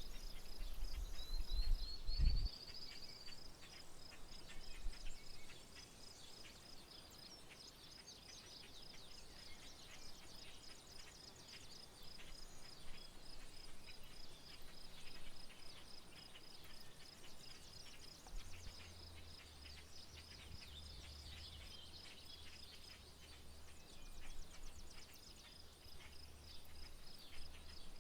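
Rural outdoor ambience: birds chirping over a steady high-pitched pulsing call that repeats a few times a second. There is a low rumble in the first couple of seconds and a faint low drone through the second half.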